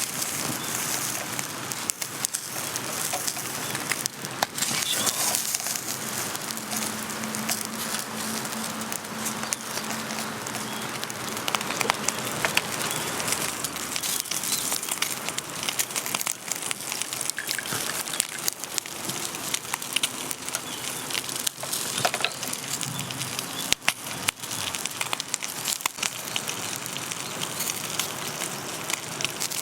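Steady rain falling together with a wood fire crackling in a fire pit, with many small sharp pops scattered throughout.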